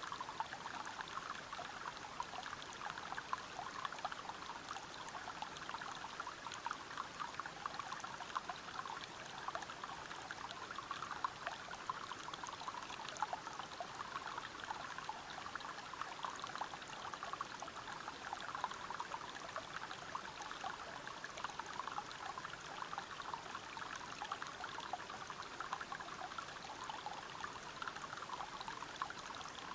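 River water running over rocks: a steady splashing rush that goes on without a break.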